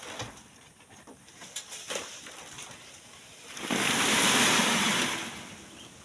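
Loose sand and gravel pouring for about a second and a half, swelling in and fading out, after a few scattered knocks.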